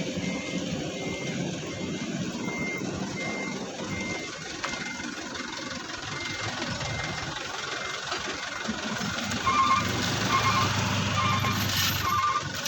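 Reversing alarms on heavy earthmoving machinery beeping at about two beeps a second over a low, steady diesel engine. A faint, high beeper sounds in the first five seconds; a louder, lower-pitched beeper starts about nine and a half seconds in.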